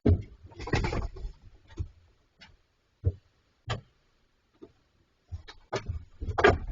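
Bears knocking and scraping at a metal fridge: irregular bumps and rustling scrapes with short silences between them, busiest about a second in and again near the end.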